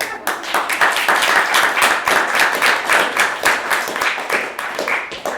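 Small audience applauding, a dense patter of many hands clapping that stops abruptly near the end.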